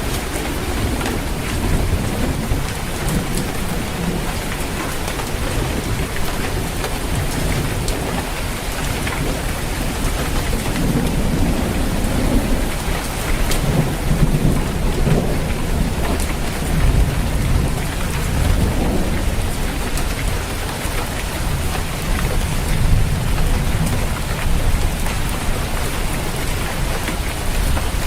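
Steady rain falling on a roof, with fine drop ticks over a dense hiss. Rolling thunder rumbles low beneath it, swelling through the middle of the stretch.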